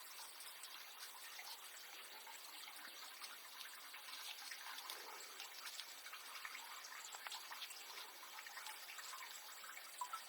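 Faint steady trickle of running water, with many small scattered ticks.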